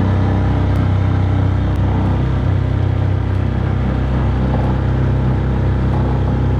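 Small propane-fuelled outboard motor running steadily at a constant speed, pushing the john boat along, with a low, even hum.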